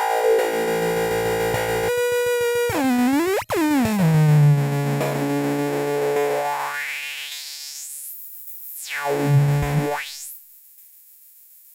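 ADDAC105 4-Voice Cluster eurorack synth voice droning with buzzy harmonic tones. Its pitch swoops down and then sharply up about three seconds in, settles on a low tone that fades, then sweeps up very high and back down before cutting out about ten seconds in, leaving only faint hiss.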